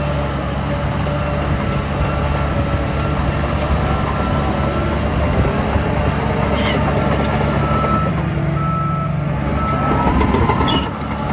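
Heavy diesel earthmoving machinery running steadily, with a reversing alarm beeping at intervals. Near the end a brief whine rises and falls, and the sound then drops a little.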